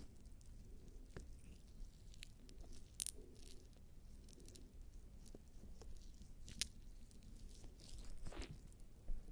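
Jelly-slick bare skin rubbed over the microphone's ears: faint wet squishing with scattered sticky crackles and clicks, and a longer rub near the end.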